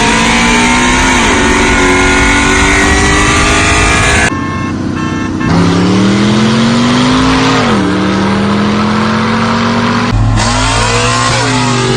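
Loud car engine revving in several short clips joined by abrupt cuts, its pitch climbing and dropping with each rev.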